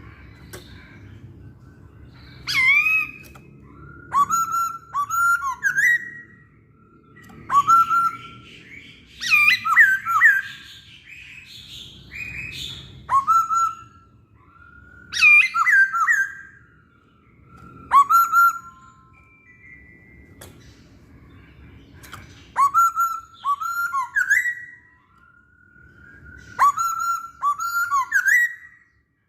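Chinese hwamei (poksay Hongkong) singing: short, loud phrases of swooping whistled notes repeated every couple of seconds, with a pause of a few seconds past the middle. A faint low rumble lies underneath.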